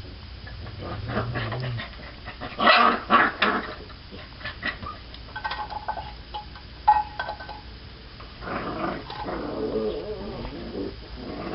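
Puppies scuffling and play-fighting, growling and snarling in irregular bursts, with a few short high-pitched cries in the middle. The loudest burst comes about three seconds in.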